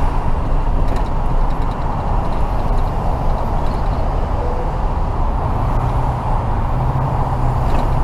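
A tow truck's engine running under steady road and traffic noise, with a low, even engine hum coming up from about five seconds in.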